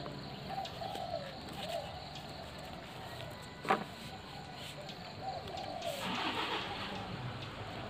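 Birds cooing in a string of short repeated calls, with a single sharp knock about halfway through and a brief rush of noise about six seconds in.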